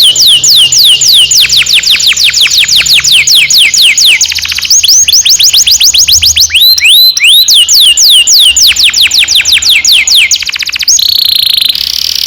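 Domestic canary singing a long rolling song: a fast run of whistled notes, each sweeping downward, about five a second, broken by rapid buzzy trills about a third of the way in and near the end.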